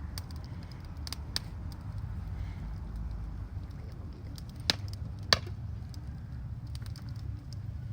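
Wood fire of a bonfire crackling, with a few sharp pops over a steady low rumble.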